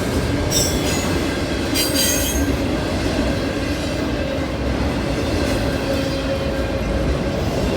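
Canadian National freight cars, auto racks among them, rolling past with a steady rumble and rattle of wheels on rail. Brief high wheel squeals come about half a second in and again around two seconds in.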